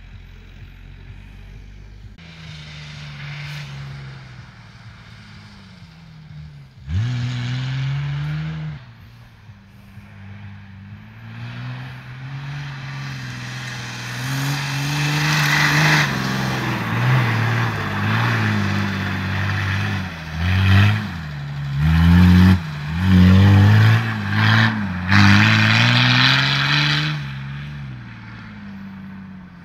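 Off-road 4x4's engine labouring along a muddy track, its pitch rising and falling. There is a sudden loud surge about seven seconds in, and several quick revs in a row in the second half.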